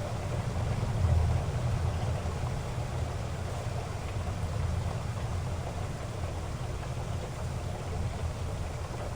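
Heavy rain falling: a steady hiss over a deep low rumble that swells slightly about a second in.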